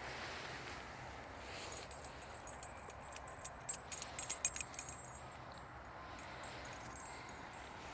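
Light metallic jingling: a quick run of small clinks starting about two seconds in, thickest around the middle and stopping about five seconds in.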